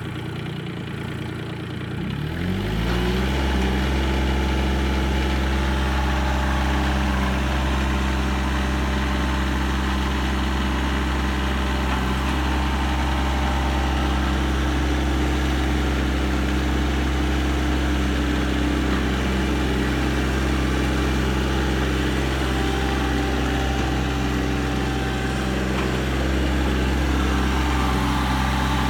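Mahindra eMAX 22S tractor's three-cylinder diesel engine idling, then throttled up about two seconds in. It climbs in pitch and runs steadily at high revs.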